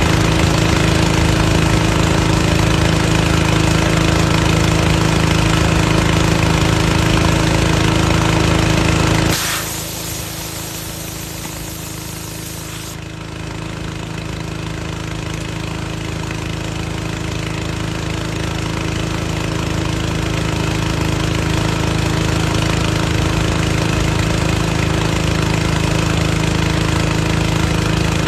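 Gas-powered portable air compressor engine running steadily while it fills an air tank. About nine seconds in its note drops and a burst of air hissing lasts about four seconds, then the engine runs on, slowly getting louder again.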